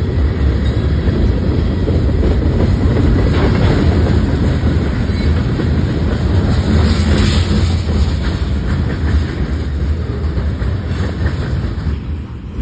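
CSX manifest freight train passing close by: a loud, steady noise of steel wheels on the rails with some clickety-clack, easing slightly near the end.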